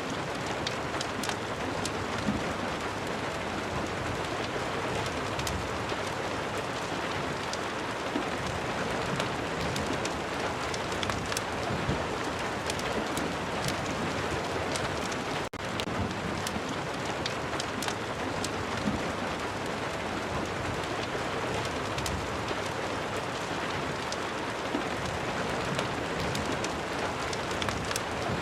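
Rain-and-fireplace ambience: a steady hiss of rain with scattered sharp clicks and pops of a crackling fire, broken by a momentary drop-out about halfway through.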